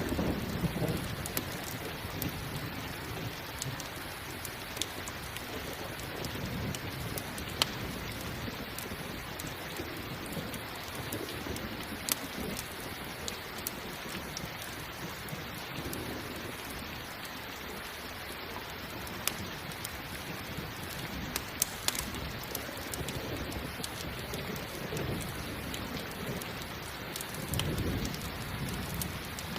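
Steady heavy rain with rolling thunder, one rumble at the start and another near the end, and a few sharp pops scattered through, like a crackling campfire.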